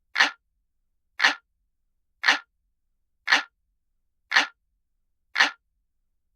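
Clock ticking sound effect: single sharp ticks, one about every second, perfectly even with silence in between.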